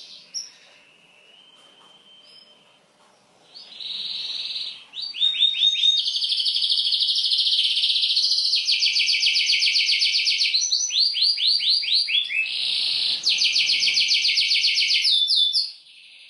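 Domestic canary singing: faint scattered notes at first, then from about five seconds in a loud, continuous song of fast rolling trills and rapidly repeated notes that stops shortly before the end.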